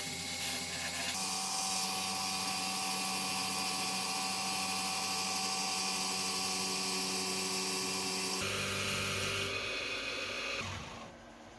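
A power tool running with a steady whine. Its tone shifts about eight seconds in, and it dies away near the end.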